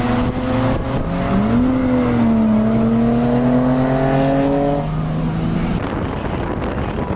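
Car engine under hard acceleration: its pitch dips about a second in, then climbs steadily for several seconds as it revs up.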